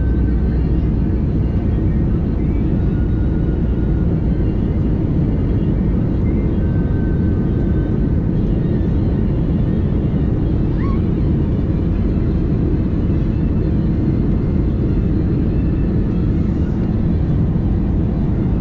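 Steady rumble of an Airbus A320neo heard from inside the passenger cabin: engine and airflow noise with no change in pitch or level.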